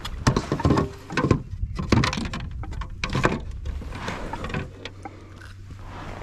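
Irregular knocks, taps and rustling as a caught spotted bass and gear are handled on a kayak; busiest in the first few seconds, then quieter.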